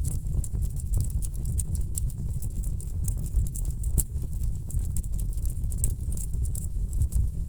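Wood fire burning in a fireplace, crackling with frequent sharp pops and snaps over a low, steady rumble.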